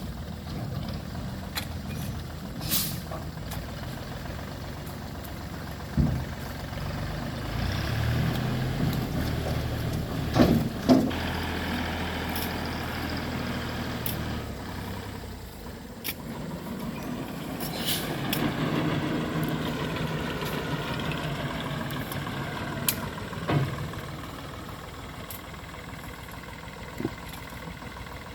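Heavy diesel machinery working: an engine running and revving, its pitch rising and falling, with several sharp knocks and clanks.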